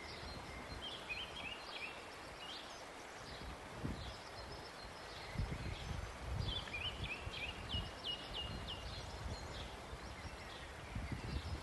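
Outdoor ambience with small birds chirping in short runs of quick repeated notes, thickest about halfway through, over a steady background hiss with a few faint low thuds.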